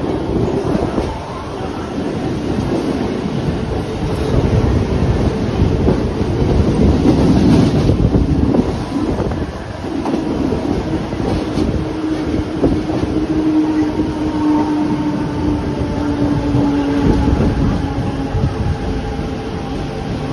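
Train running on the tracks: a continuous rumble of wheels and carriages. A thin, steady whine comes in about halfway through and sinks slightly in pitch toward the end.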